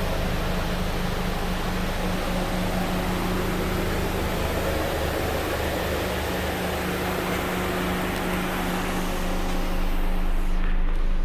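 2013 Dodge Dart's 2.0-litre four-cylinder engine idling steadily, a low even hum with a hiss over it. Near the end the hiss drops away and the deep hum gets stronger.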